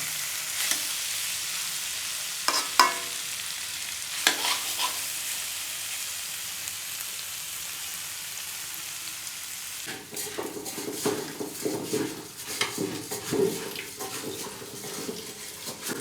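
Smoked pork curry with potato and tomato sizzling in the pan, with two sharp clinks of a utensil against it. From about ten seconds in, busier irregular clattering and stirring.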